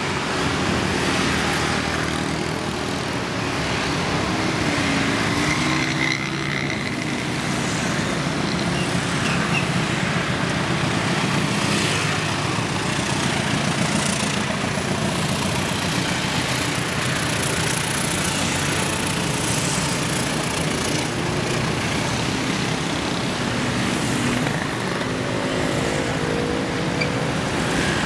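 Logawa passenger train running by steadily, hauled by a CC201 (GE U18C) diesel-electric locomotive: engine and wheel-on-rail noise, with a thin high squeal for several seconds midway.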